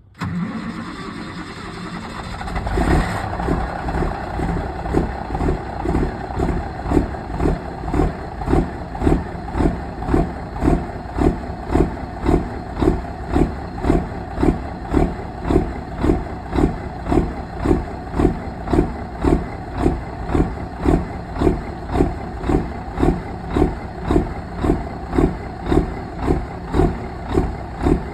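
Cummins 855 inline-six truck diesel cold-starting: it cranks for about three seconds, catches, and settles into a rough cold idle with a strong, regular pulse about every two-thirds of a second.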